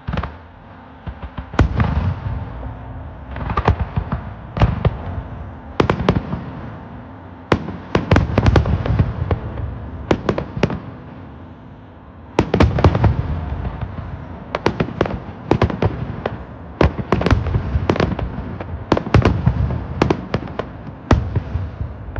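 Aerial fireworks shells bursting overhead in quick clusters of sharp bangs, with a rumbling echo between them. There are a few quieter gaps, then dense volleys toward the end.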